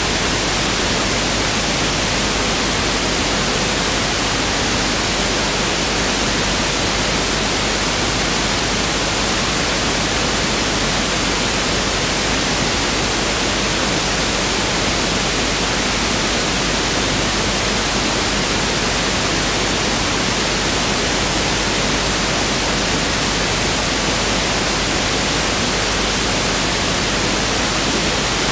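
Pink noise (1/f noise) test signal: a steady, even hiss across the whole frequency range, unchanging throughout.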